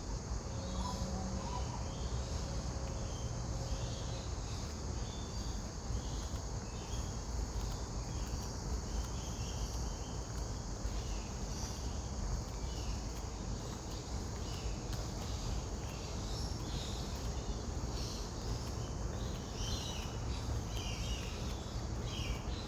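Many short, high bird calls scattered through a steady insect drone, over a low continuous background rumble.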